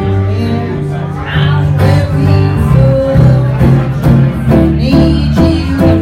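Bluegrass band playing an instrumental break: picked acoustic strings, led by guitar, over a steady bass line.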